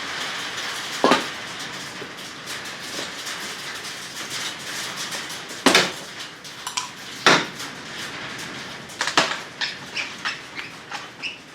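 Hand tools and metal parts clinking and knocking during work on a car's engine: four sharp knocks a couple of seconds apart, then a quicker run of lighter clicks near the end, over a steady hiss.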